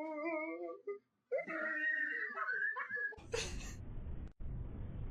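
A pet's whimpering cries: two wavering calls, the second longer and higher. About three seconds in, the sound cuts to a steady hiss.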